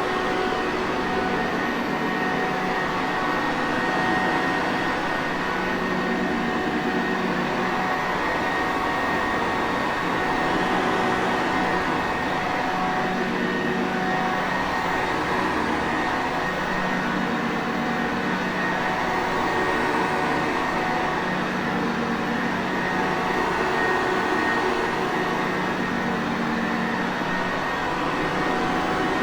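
Sanitaire Perfect upright vacuum cleaner running steadily: a continuous motor whir and air noise with several constant tones in it.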